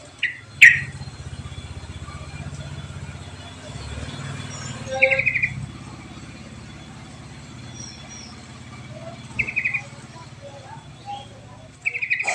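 Yellow-vented bulbul (trucuk) calls from a lure recording: short, rapid chirping trills about every four seconds, four in all, the first sharpest. A steady low hum runs underneath.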